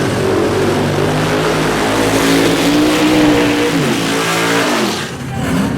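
Drag-race car engine running at full throttle, getting louder to a peak about three seconds in, then its pitch falls away sharply near the end.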